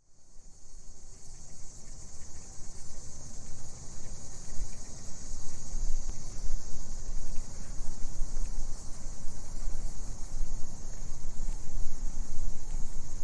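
Steady high-pitched chirring of a cricket or insect chorus, fading in at the start, over a low, uneven rumble.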